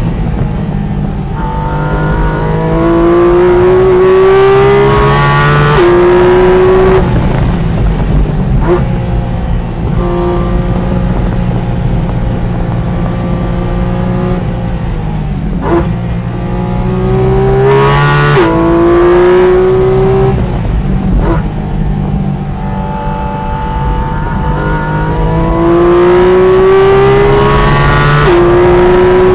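Track car's engine heard from inside the car, pulling hard through the gears. The pitch climbs and then drops at upshifts about 6 s, 18 s and 28 s in. In between it runs lower and steadier through a slower section, with a few short sharp clicks.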